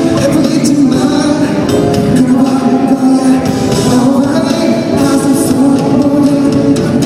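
Live pop song played loudly through a concert sound system, a male singer's voice over the band.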